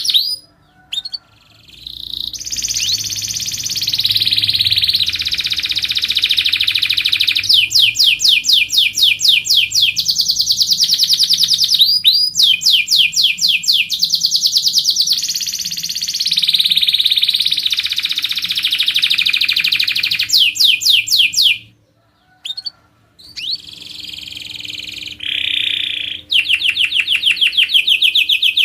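Domestic canary singing a long, vigorous song of rapid trills and sustained rolls, with short breaks about a second in and again about 22 seconds in. It is a 'gacor' lure song, used to prompt other canaries to sing.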